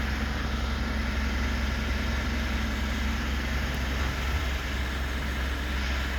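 Diesel engine of a Mitsubishi Pajero Sport idling steadily.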